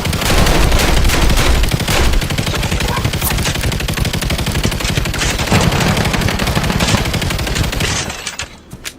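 Dense, continuous gunfire from many weapons at once, rapid automatic bursts overlapping, with a heavy low rumble beneath. It thins out near the end.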